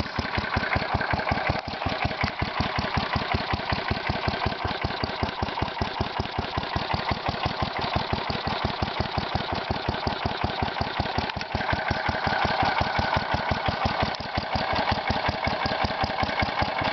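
Kohler Magnum 16 hp single-cylinder engine idling steadily, each firing pulse distinct, through a muffler with exhaust leaks. The idle is set really low, and the engine doesn't sound the healthiest.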